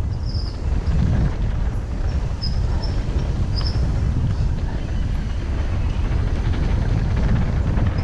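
A mountain bike running down a downhill trail: a steady low rumble of wind and rolling noise on the rider's action-camera mic, with a few short high squeaks.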